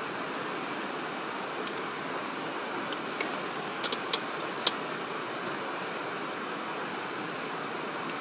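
Wood fire crackling, with a handful of sharp pops between about one and a half and five seconds in, the loudest a little past the middle, over a steady rushing hiss.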